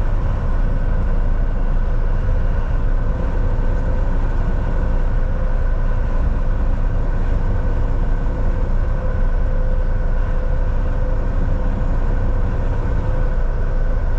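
Volvo VNL 760 semi-truck cruising steadily, heard from inside the cab: a constant engine and road drone with a deep rumble and a few steady hum tones over it.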